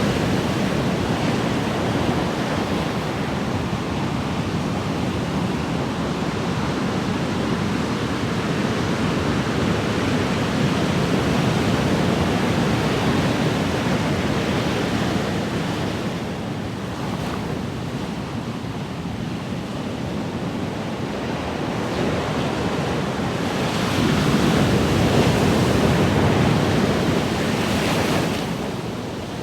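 Ocean waves washing onto a shore in a continuous surf hiss, with a bigger wave swelling louder a little past three-quarters of the way through and then easing off near the end.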